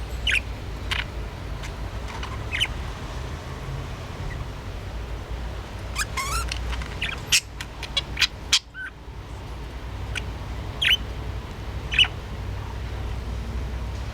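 Pet budgerigar giving short, sharp chirps now and then, with a quick cluster of them and clicks about halfway through, over a steady low hum.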